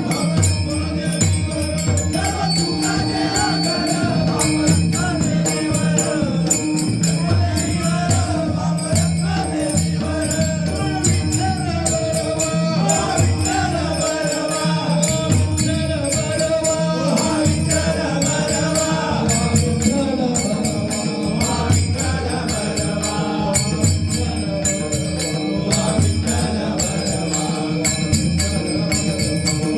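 Marathi devotional bhajan music. A pakhawaj drum keeps a steady rhythm under the constant jingle of small hand cymbals, with a held melody line that wavers in pitch above them.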